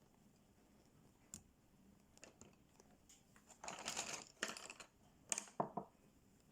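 Coloring tools being handled and used on paper: a few light clicks and taps, then about a second of scratchy rubbing a bit past halfway, and a quick cluster of sharper clacks near the end.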